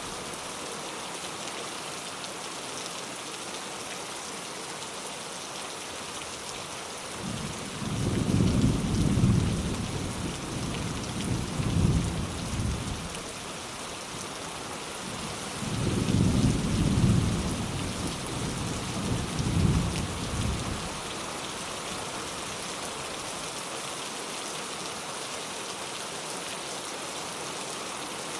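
Steady rain with two rolls of thunder. Low rumbles swell about a quarter of the way in and again past the middle, each rolling on for several seconds.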